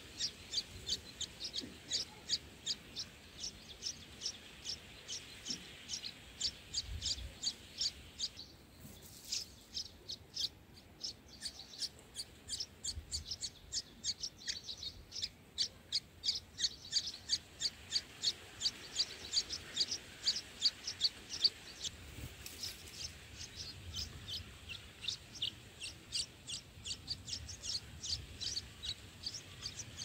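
Red-whiskered bulbul nestlings begging at the nest: a steady run of short, high chirps, about three a second, with a brief pause about nine seconds in.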